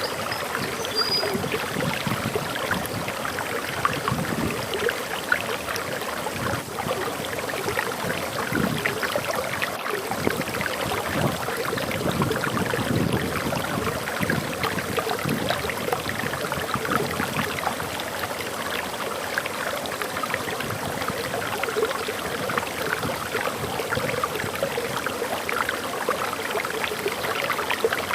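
Small forest waterfall: water pouring and splashing steadily, with a brief faint high bird chirp about a second in.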